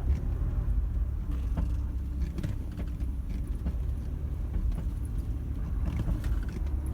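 Cabin sound of a Toyota Land Cruiser Prado 150 on the move: a steady low road and engine rumble with a few faint ticks. There is no creak from the dashboard panel against the windscreen, a sign that the creak has been cured.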